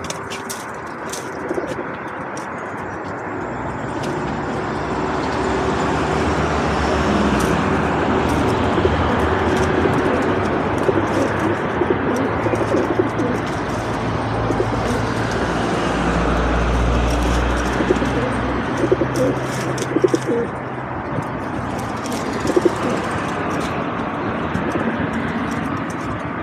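Feral pigeons cooing, repeatedly and overlapping, with many sharp clicks scattered through it and a steady rushing noise underneath.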